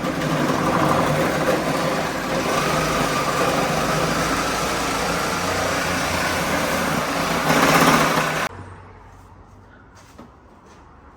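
A car engine running steadily, swelling briefly louder, then cutting off abruptly.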